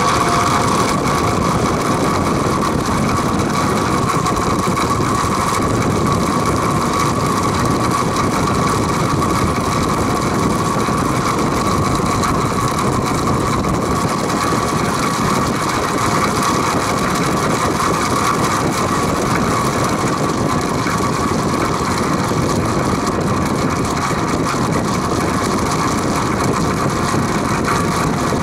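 Vintage Penncrest (rebranded Lakewood) 20-inch box fan running on high speed with a steady hum and a constant rattle that sounds like a diesel engine. The rattle persists although the motor has no play, the blades are tight and the bearings have been soaked in WD-40, and its cause is unknown to the owner.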